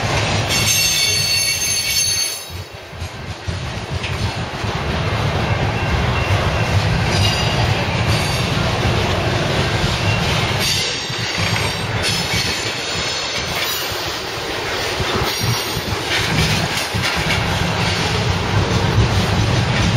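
Freight train of centerbeam flatcars rolling past, with a steady rumble of wheels on rail. High-pitched wheel squeal rises about a second in and again around eleven seconds, with fainter squeals in between.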